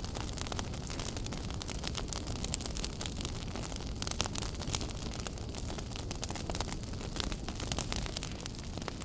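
Wood fire burning in a fireplace: a steady low rumble of flames with many sharp crackles and pops scattered throughout.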